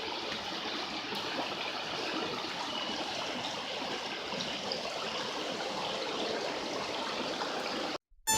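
Small shallow stream flowing over rocks: a steady, even rush of running water that cuts off abruptly near the end.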